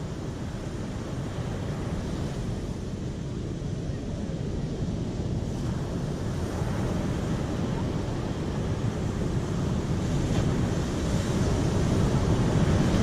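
Steady rushing noise that grows gradually louder.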